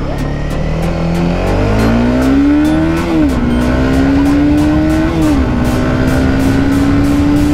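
Honda CBR300 single-cylinder motorcycle engine accelerating through the gears. The engine note climbs, then drops with an upshift about three seconds in and again about five seconds in, with wind noise underneath.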